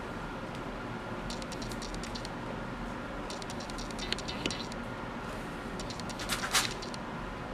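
Three spells of quick small clicks and scratches over a steady hum, the loudest click near the end: hands working on an engine wiring harness.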